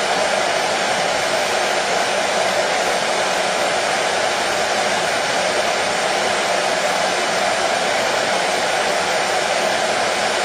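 Hair dryer running steadily: a constant, even rush of air and motor noise.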